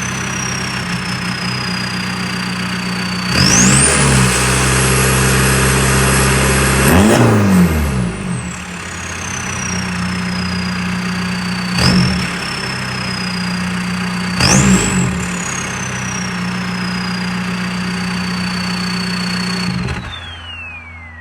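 2001 VW Jetta's ALH 1.9 TDI diesel with a straight-piped 3-inch turbo-back exhaust, revved from idle: one long rev held for about three seconds, then three short blips. The turbo whistles high above it, jumping up with each rev and sliding slowly back down between them, then falling away near the end as the engine note drops.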